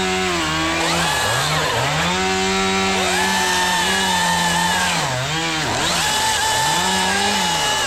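Two-stroke chainsaw running at high revs, its engine note dropping off and climbing back several times as the throttle is eased and squeezed again.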